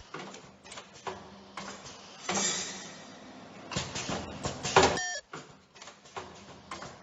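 Automatic face-mask ear loop welding machine running through its cycle: a series of mechanical clicks and knocks, a hiss of air about two and a half seconds in, and a short whining tone near five seconds in, the loudest moment.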